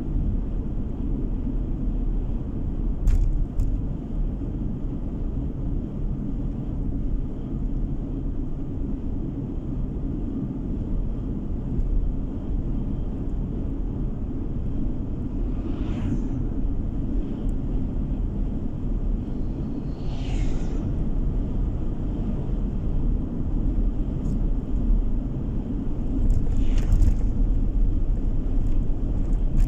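Steady low road and engine rumble inside a car cruising on the road, with a few brief whooshes partway through and near the end.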